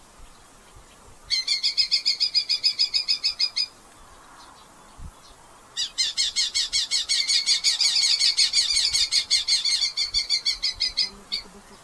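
Red-footed falcon giving rapid, evenly repeated calls of about five notes a second, in two bouts: a short one early on and a longer one starting about halfway through.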